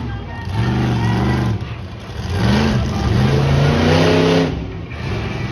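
Monster truck engine revving hard in bursts: a first rev that drops away about a second and a half in, then a climb to a long held high rev that falls off near the end.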